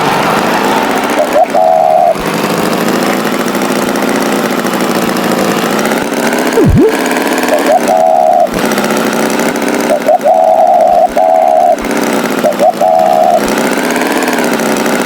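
Tractor engine running steadily, with several short steady tones laid over it.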